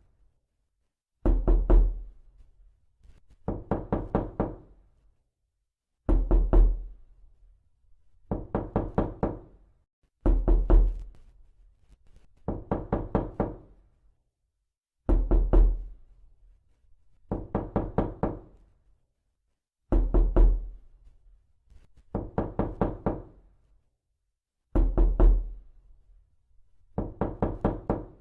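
Knocking in a regular pattern: bursts of about five or six quick raps, each burst about a second long, repeated every two seconds or so, about a dozen times.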